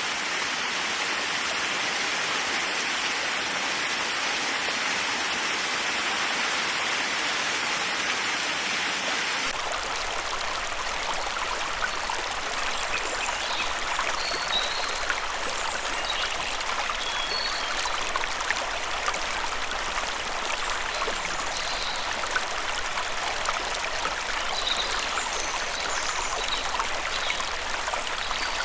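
Steady rush of running water from a small cascade. About a third of the way in the sound changes, and after that faint short bird chirps come through now and then above the water.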